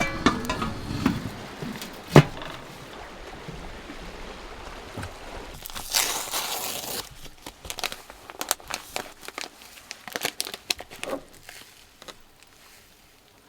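Packaging being crinkled and torn open by hand, with scattered handling clicks and one sharp knock about two seconds in. There is a second-long burst of tearing near the middle.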